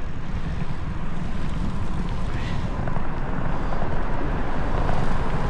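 Wind rushing and buffeting over the microphone of a camera carried on a moving bicycle, a steady low rumble.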